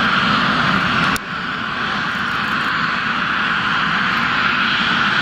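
CASA C-101 jet trainers' Garrett TFE731 turbofan engines running, a steady jet noise, with a sharp click and a small drop in level about a second in.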